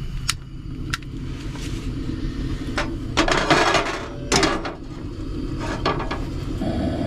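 Cookware and utensils clinking and clattering as cooking gear is handled, with scattered sharp clicks and two louder clatters about three and four and a half seconds in.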